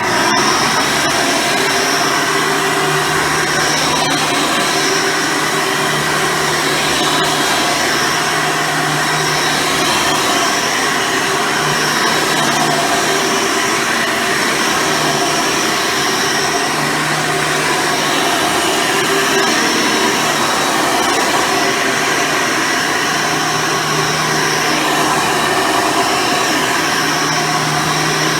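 Hoover Soft & Light Supreme upright vacuum cleaner with a 12-amp motor, running steadily at full power. A low hum in its sound swells and fades every few seconds.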